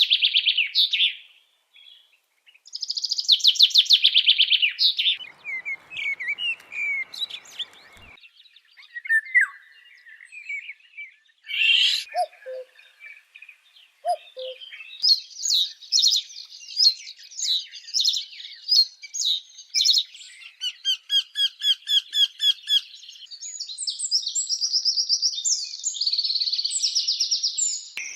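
Birds singing and calling, several different songs one after another: fast high trills, scattered chirps and short whistles, then a long run of quick repeated notes.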